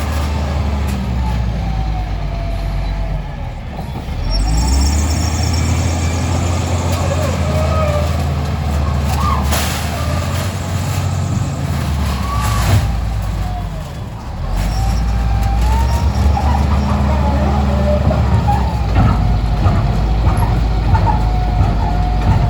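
Heavy diesel machinery engine running steadily, with the engine note changing after brief dips about a few seconds in and again about two-thirds of the way through.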